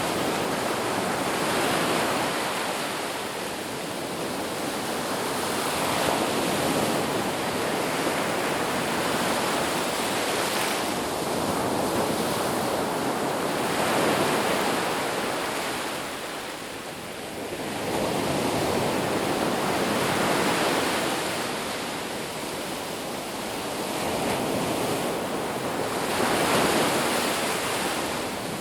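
Ocean surf breaking on a beach: a continuous wash of waves that swells and ebbs every few seconds, with a brief lull about two-thirds of the way through.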